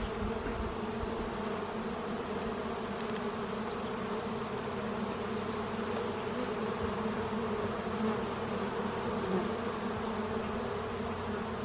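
A colony of honey bees buzzing in a steady, even hum around an open hive as its frames are inspected.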